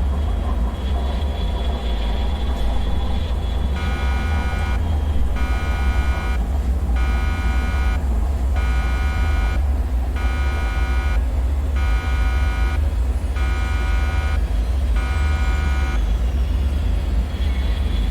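A deep, steady rumbling drone with a repeating electronic alarm tone over it. Starting about four seconds in, the tone beeps about eight times, roughly once every second and a half, then stops.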